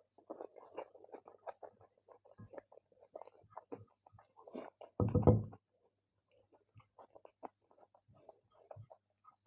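Close-miked chewing and wet mouth sounds of a man eating rice and red kidney beans by hand, with soft clicks of fingers gathering rice on a glass plate. A short, louder low thump about five seconds in.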